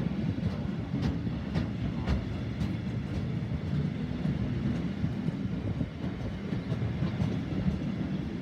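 Rail running noise heard from aboard a moving train: a steady low rumble of wheels on track, with sharp clicks about twice a second for the first few seconds as wheels cross rail joints, fainter after that.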